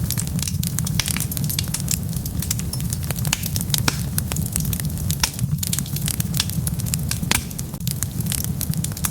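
Wood fire burning, with frequent sharp irregular crackles and pops over a steady low rumble of the flames.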